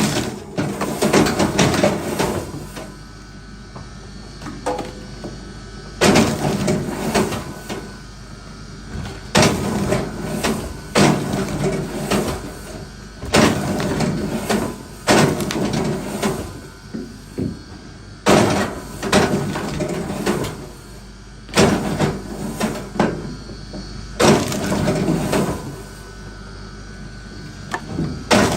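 Wood being worked by hand: about a dozen sharp hits or scrapes, each with a creaking or rasping tail of a second or two, coming a few seconds apart at an uneven pace.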